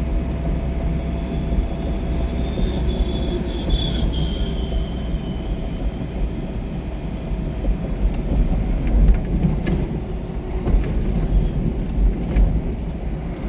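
Steady low rumble of a moving vehicle, with a high squeal gliding slightly down from about two and a half seconds in and a few sharp clicks in the second half.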